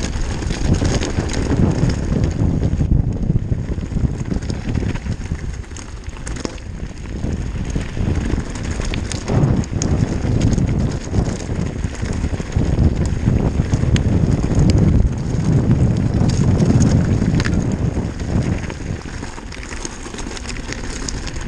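Wind rushing over the microphone of a downhill mountain bike at speed, with the bike rattling and knocking over a rocky trail.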